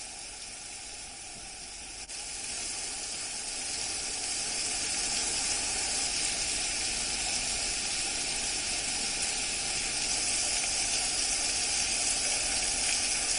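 Rain falling steadily as an even hiss, growing louder about two seconds in and holding steady from about four seconds in.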